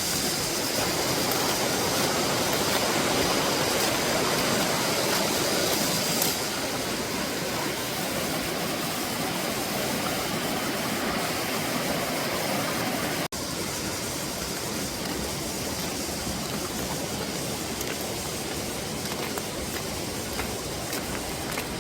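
Mountain stream rushing over rocks, a steady, even rush of water. For about the first six seconds, cicadas buzz in a high steady tone over it; about thirteen seconds in, the sound drops out for an instant.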